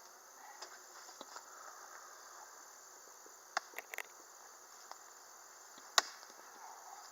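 Faint, steady insect hum with a few sharp clicks and knocks: three close together about three and a half seconds in, and the loudest single click about six seconds in.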